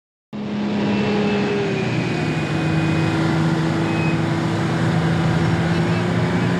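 Motor vehicle running on the road: loud steady road noise with a low engine hum, cutting in suddenly a moment in after silence.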